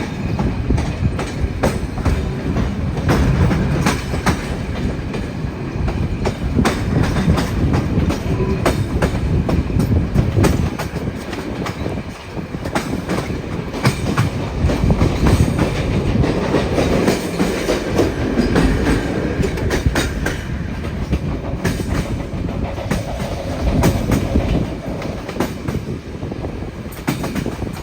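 Train running along the rails: a steady rumble with many irregular clicks from the wheels over the track.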